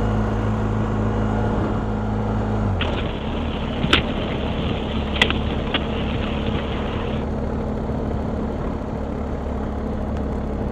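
Motorcycle engine running at low speed, its steady note dropping about three seconds in, with two sharp clicks a little later.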